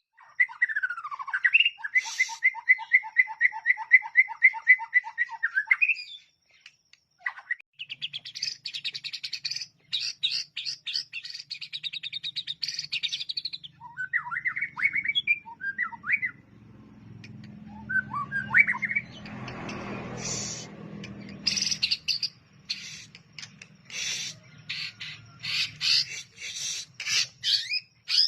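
White-rumped shama singing a long, varied song: first a fast string of repeated two-note whistles, then rapid rattling trills, then scattered sharp chips and calls. A faint low hum runs under the second half, with a brief noisy rush near the middle.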